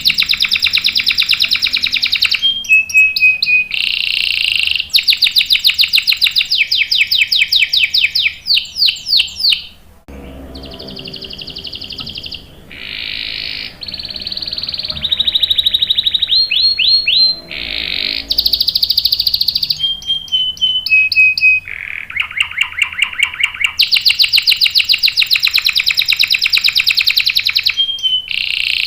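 Canary singing: long, very fast rolling trills alternating with short clear whistled notes, with a softer, lower passage in the middle of the song.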